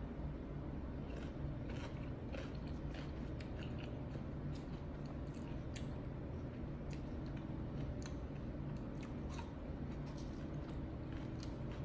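Chewing a mouthful of pickle wrapped in a fruit roll-up: irregular soft crunches and clicks, roughly one or two a second, over a steady low hum.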